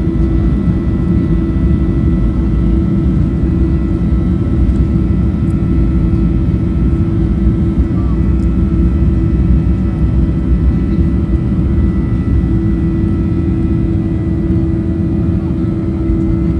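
Boeing 737-800's CFM56 turbofan engines running at steady power as heard inside the passenger cabin: a loud, even rumble with a steady low hum and fainter high tones above it.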